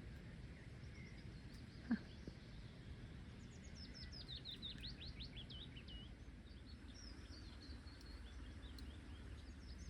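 Faint, steady low drone from the sky, like a distant helicopter or airplane but not moving, with a small bird singing over it from about three seconds in, a run of quick falling high whistles. A short knock about two seconds in.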